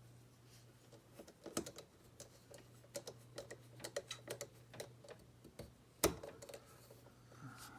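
Scattered light clicks and taps of small model parts and screws being handled and set in place, the loudest click about six seconds in.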